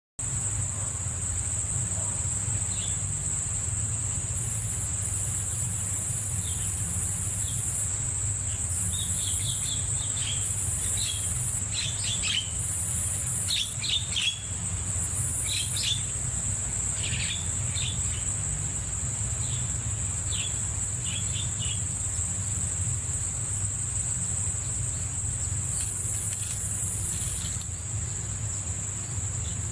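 Insects, likely crickets, keep up a continuous high-pitched trill, with a second higher trill switching on and off. A bird gives short, sharp chirps, clustered in the first two-thirds. A steady low rumble runs underneath.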